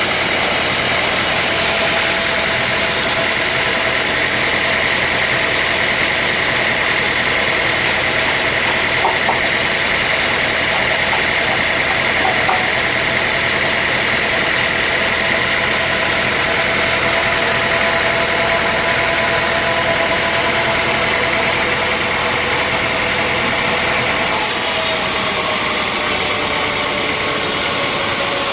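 Sawmill machinery engine running steadily at constant speed, with a high steady whine over it; the sound changes abruptly about 24 seconds in.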